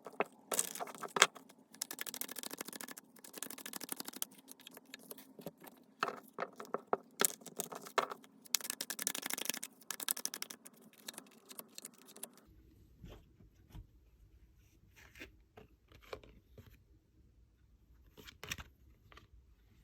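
Tarot cards being handled: dense scraping and rustling as the deck is shuffled and slid around. About twelve seconds in it drops to a quieter stretch with a low hum and a few scattered clicks and taps.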